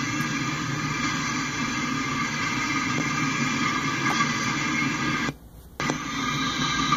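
Empty intermodal flatcars of a freight train rolling over a grade crossing: a steady rumble of wheels on rail, with the crossing's warning bell ringing over it. The sound cuts out for about half a second a little after five seconds in.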